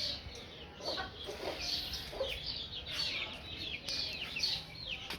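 Pet parrot chattering: a continuous run of short, quick chirps that fall in pitch, with a few lower, rougher calls about one and two seconds in.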